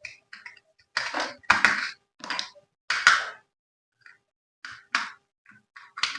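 Packaging and a toy being handled by hand: a run of short rustling, clattering knocks, the loudest between about one and three and a half seconds in, with brief silences between them.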